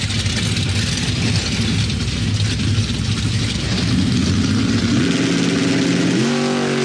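Drag-racing cars' engines running loud and rough at the strip's starting area, then held at a steady high rev that steps up sharply about six seconds in as the cars wait at the line to launch.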